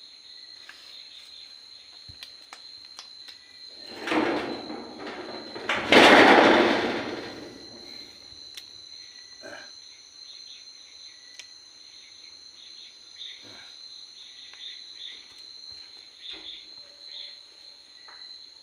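Crickets chirping in a steady high drone. A loud rushing noise swells about four seconds in, is loudest around six seconds and fades out by about eight seconds.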